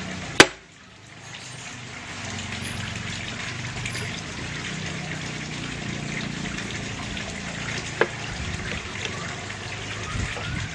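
A steady trickling, water-like background, with one sharp click about half a second in and a lighter click about eight seconds in.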